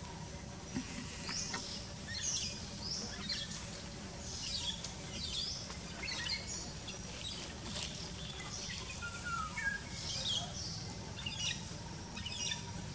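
Birds chirping: many short, high chirps a few times a second over a steady low background rumble.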